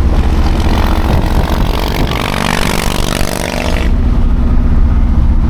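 A vehicle engine running loud with a low rumble, revving up about two seconds in and settling to a steady pitch, with a rushing hiss over it that stops about four seconds in.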